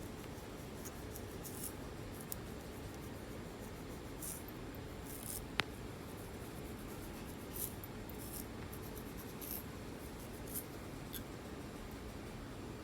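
Short, crisp, irregular scratches and scrapes on a dry, flaky scalp as flakes are picked loose, with one sharper click about halfway through.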